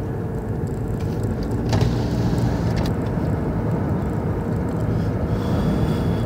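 Car engine and road noise heard from inside the cabin while driving: a steady low rumble, with a brief click a little under two seconds in.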